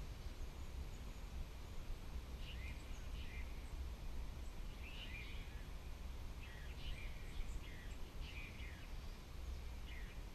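Small birds chirping in short, repeated calls, starting about two and a half seconds in, over a steady low rumble.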